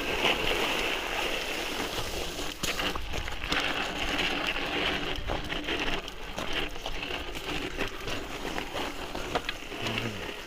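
Mountain bike riding over a rough, gravelly trail: tyres rolling and crunching, with frequent small knocks and rattles from the bike over bumps.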